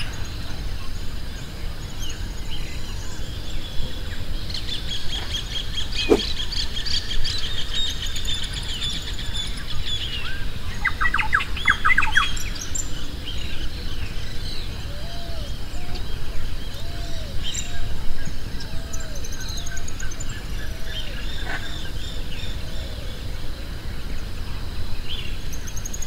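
Many small birds chirping and trilling, with a quick run of rapid repeated notes about eleven seconds in, over a steady low background rumble.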